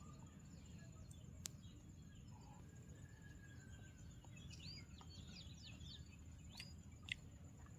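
Quiet forest ambience: a few faint bird chirps in the second half over a low steady background noise, with two soft clicks.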